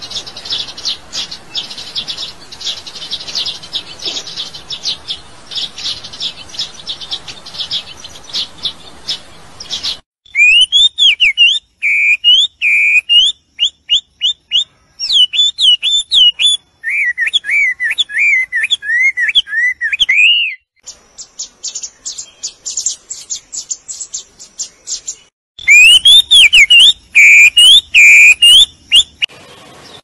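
Songbirds calling: about ten seconds of dense, fast high chirping, then loud whistled phrases that glide up and down, a few seconds of quick thin chirps, and the same whistled phrases again near the end.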